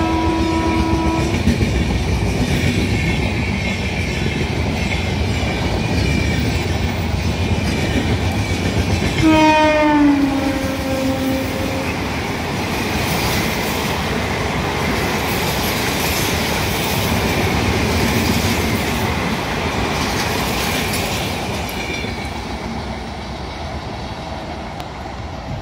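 Two Indian Railways express trains passing each other at speed: the steady rumble and clickety-clack of coaches running over the rail joints. A locomotive horn ends in the first second or so, and another horn sounds about nine seconds in for about two seconds, dropping in pitch as it goes by. The rumble fades near the end.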